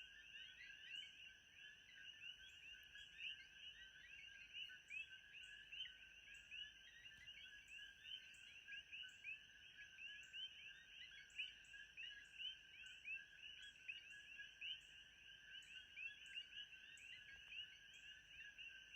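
Faint nature ambience: a dense, unbroken chorus of short chirping calls from many small animals, with a steady thin high whine above it.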